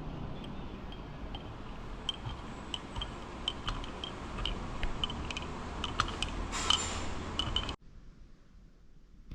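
Light, irregular clinks and taps of cups and utensils as coffee is made, over a steady background hum. The sound cuts off abruptly about three-quarters of the way through.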